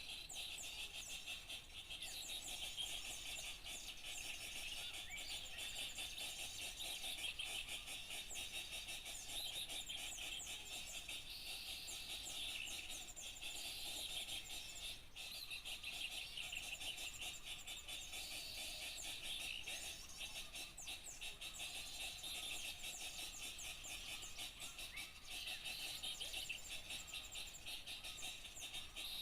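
A dense chorus of many small birds chirping and twittering without a break, played as a lure call to draw small wild birds in.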